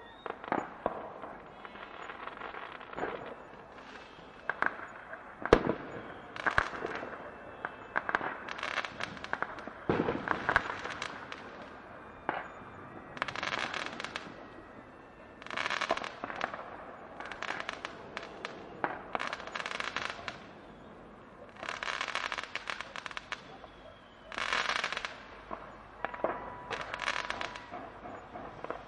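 Fireworks crackling in repeated clusters of rapid pops, a burst every couple of seconds, with one sharp single bang about five and a half seconds in.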